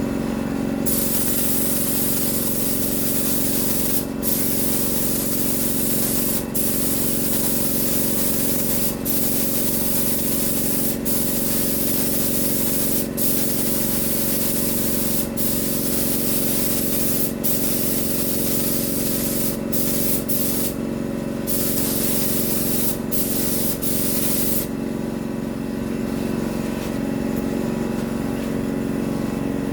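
Compressed-air paint spray gun, set at about 28 psi, hissing in long passes about every two seconds, with a short break each time the trigger is let go between passes; the spraying stops about 25 seconds in. A steady hum with several fixed tones, from the air compressor, runs underneath throughout.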